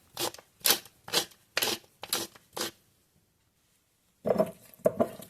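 Black pepper being ground from a pepper grinder: about six short rasping strokes roughly half a second apart. A pause follows, then softer handling noises near the end.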